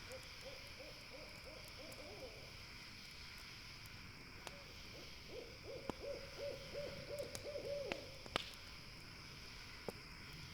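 An owl gives two rapid runs of short, low hoots, the first in the opening two seconds and a longer one in the middle. A campfire crackles with a few sharp pops over a steady high-pitched drone.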